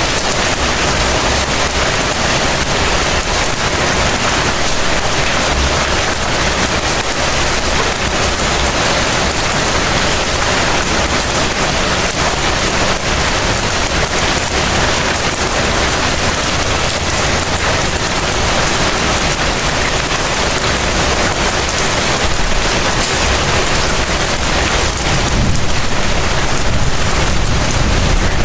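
Heavy rain falling steadily, a dense even hiss of drops, with a low rumble under it that swells slightly near the end.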